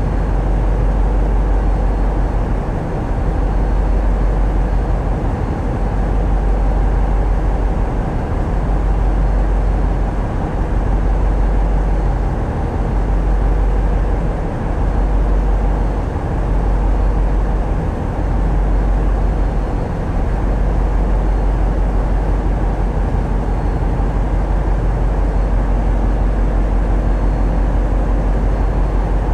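Tugboat's diesel engines running steadily on board, a constant deep rumble with a broad mechanical noise over it.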